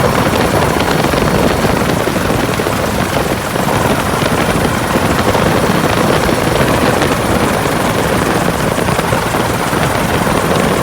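Helicopter in flight with a slung load on a long line, its rotor and engine running steadily with a thin high whine above the rotor noise.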